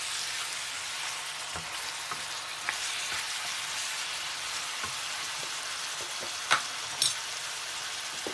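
Beef strips and sliced onions sizzling in a pan as they are stirred and turned with a wooden spatula. A steady sizzle, with a few sharp knocks of the spatula against the pan, the loudest two about two-thirds in.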